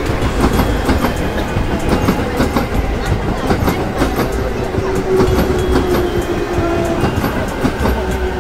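A JR Musashino Line electric commuter train running past, its wheels clicking over the rail joints with a steady rumble.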